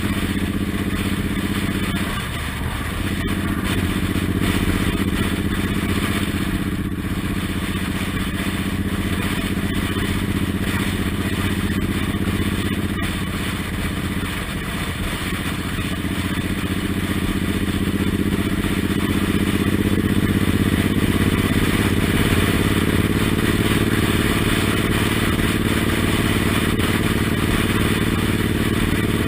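Suzuki Intruder M1800R's big V-twin engine running under way. Its pitch drops briefly about two seconds in and again about halfway through, then climbs as the bike speeds up.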